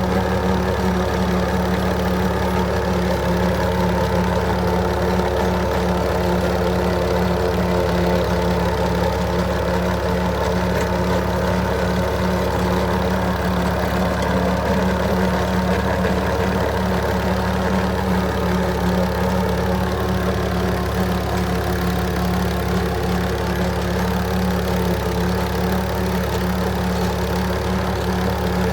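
Tractor engine running steadily at a constant speed, with no change in pitch or load.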